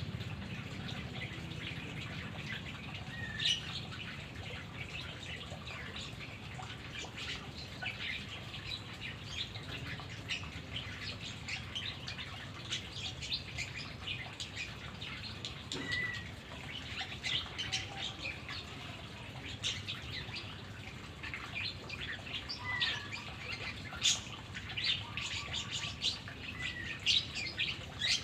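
White-rumped shama (murai batu) calling in short, scattered chirps and clicks, with a few brief whistled notes, over a steady low hum.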